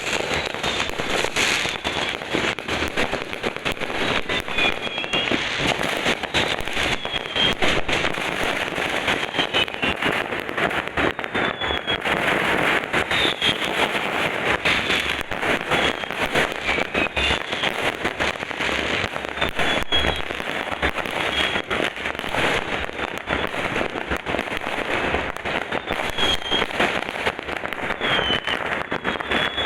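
Fireworks going off in a dense, continuous crackle of pops and bangs, with short falling whistles now and then.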